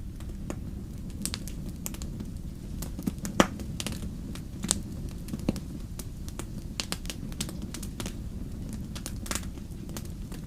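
Fire crackling: a steady low rumble with sharp pops scattered irregularly throughout, the loudest pop about three and a half seconds in.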